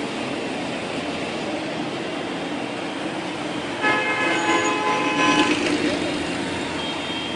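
Road traffic passing steadily, with a vehicle horn sounding for about two seconds about four seconds in.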